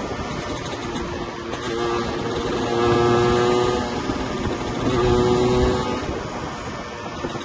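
Yamaha 125ZR two-stroke motorcycle engine running at speed under wind and road noise. The engine note holds a steady pitch and swells louder twice, about two seconds in and again about five seconds in.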